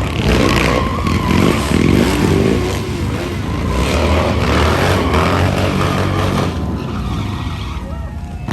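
Motocross bike engine revving and running loudly, easing off after about six and a half seconds.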